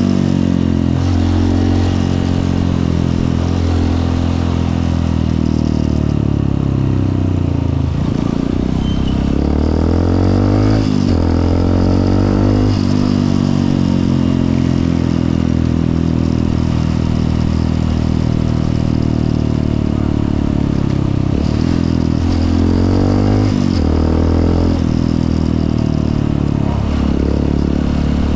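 Honda CRF150L single-cylinder four-stroke dirt bike engine running on the move, its revs climbing and then dropping several times as it shifts through the gears, with road and wind noise.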